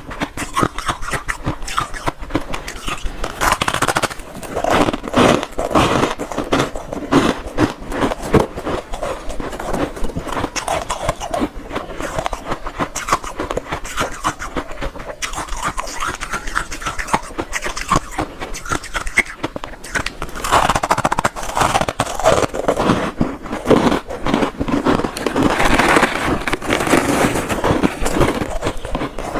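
Close-up crunching and chewing of hard ice: a dense, continuous run of rapid crackling crunches.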